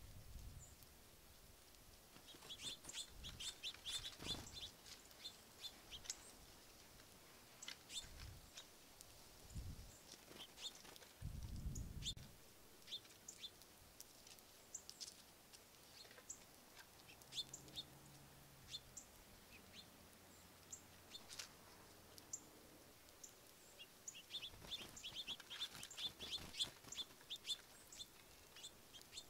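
Small birds chirping faintly, short high chips in two busy flurries, one a few seconds in and one near the end, with scattered single chips between.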